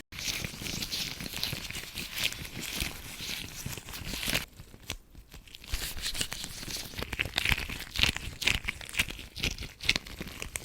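Close-miked crackling, crinkling rubbing of hands working against the microphone, as in scalp-massage ASMR. The sound breaks off briefly about four and a half seconds in, then resumes.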